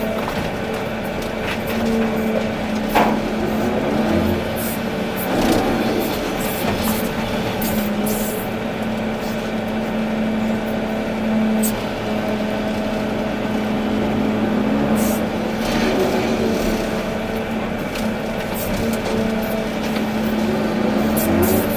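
Volvo EC380D excavator running, its diesel engine holding a steady tone under the working hydraulics, with scattered clicks and knocks.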